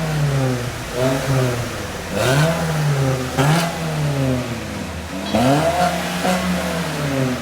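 Renault Megane 3 1.6 engine revved through an aftermarket performance exhaust: four throttle blips, each rising and falling in pitch, the last held a little longer before dropping back to idle.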